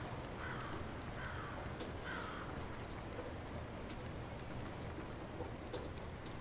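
Light rain falling steadily, with a bird calling three times in quick succession in the first few seconds.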